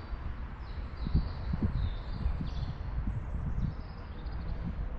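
Outdoor birdsong: many small birds chirping and trilling, over an irregular low rumble with a few dull low knocks about a second in.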